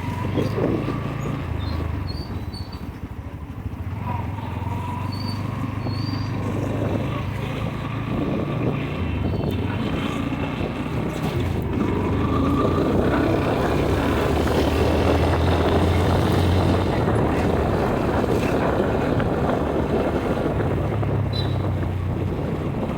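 Motorcycle engine running steadily on the move, with wind rushing over the microphone that grows louder about halfway through.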